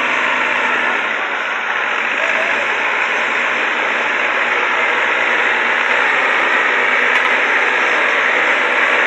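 Diesel engines of Fiat tractors running hard while pulling a heavy load, a steady noisy drone that grows a little louder after the first couple of seconds.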